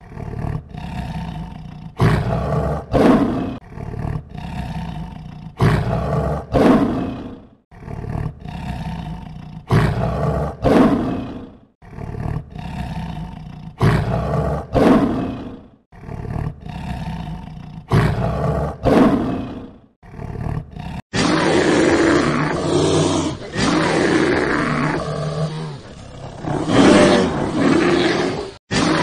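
Male lion roaring in repeated bouts of deep calls, one group about every four seconds. About 21 seconds in this gives way to two brown bears fighting in water: continuous splashing with roaring calls.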